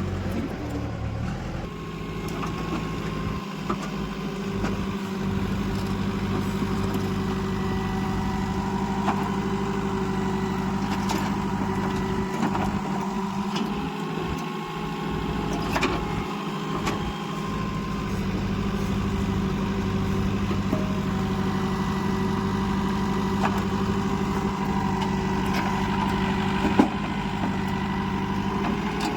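Diesel engine of a JCB 2DX backhoe loader running steadily while it loads soil into a tractor trolley. A few sharp knocks sound over it, the loudest near the end.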